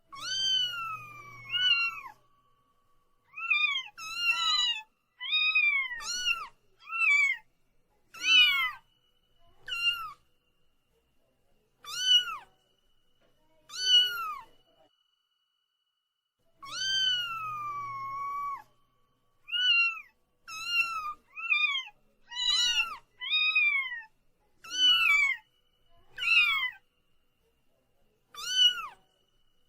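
A cat meowing over and over, about fifteen separate meows with short silences between. A long drawn-out meow opens the sequence and another comes about halfway through; the rest are short meows, several of them in quick pairs.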